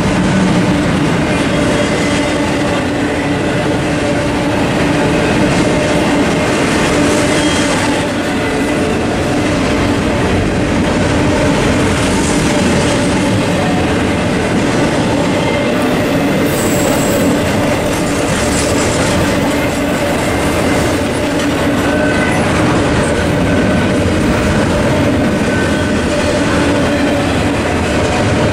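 CSX intermodal double-stack freight train rolling past at close range: a steady rumble of steel wheels on rail as the well cars go by, with a brief high squeal about two-thirds of the way through.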